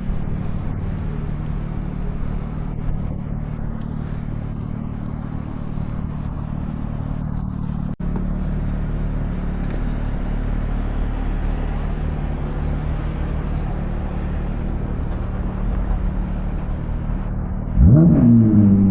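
Motor-vehicle noise: a steady low engine hum throughout, then near the end a louder vehicle sound whose pitch rises quickly, as in accelerating.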